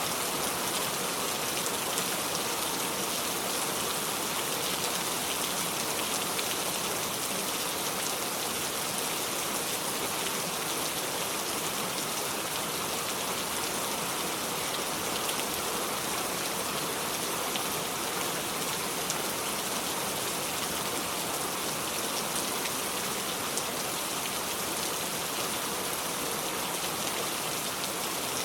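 Steady heavy rain falling, an even hiss of many drops with no thunder.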